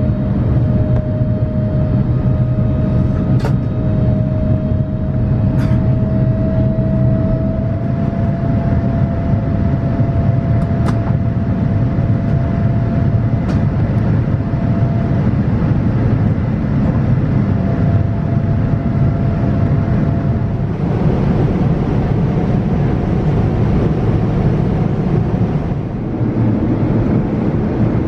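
Cabin noise inside a Boeing 787-9 airliner: a loud, steady rumble of engines and airflow. Over it runs a thin whine that rises slightly in pitch over the first several seconds, with a few faint clicks, and the noise changes character about three quarters of the way through.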